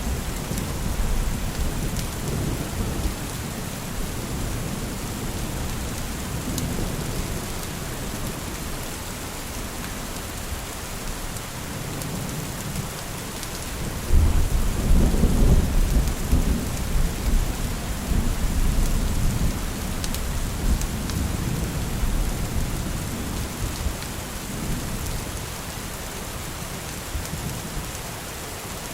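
Steady rain with rolling thunder. About halfway through, a louder, deep rumble of thunder swells and rolls on for several seconds before easing back under the rain.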